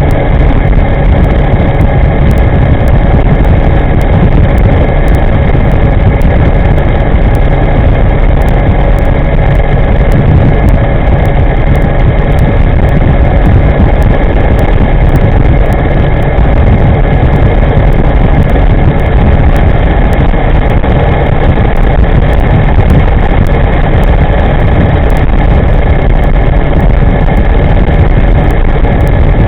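Steady, loud wind rumble on the microphone of a moving electric scooter, with a few faint steady whining tones over it.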